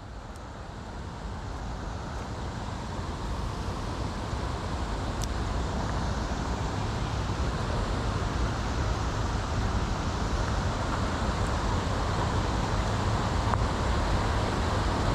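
Steady rushing noise of flowing creek water, fading up over the first few seconds, with a couple of faint ticks.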